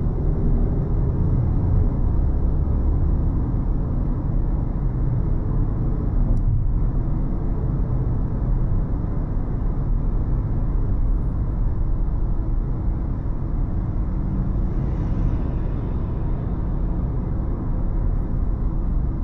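Car driving along a city road: steady engine and tyre rumble with no sharp events.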